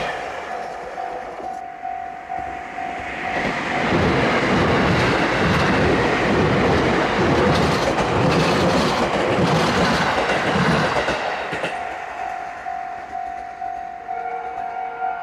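A train runs through a level crossing, its wheels clattering over the rail joints in a loud rumble from about four seconds in to about eleven seconds. The crossing's warning bell rings a steady repeating tone, clear before the train arrives and again as it fades away near the end.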